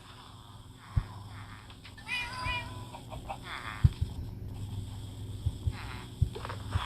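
A few faint, short pitched animal cries, about two and three and a half seconds in, over a low steady hum with scattered clicks.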